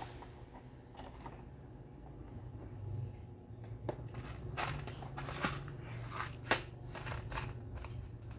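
Hands working on the parts of an Osterizer blender under repair: a scattering of sharp clicks and light knocks with some scraping, most of them bunched in the second half, over a faint steady low hum.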